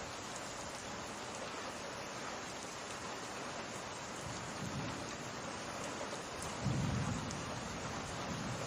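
Steady summer rain falling, with low rumbles of distant thunder, the loudest about two-thirds of the way through.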